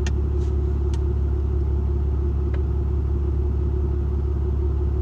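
Truck engine running, a steady low rumble heard from inside the cab, with a few faint clicks over it.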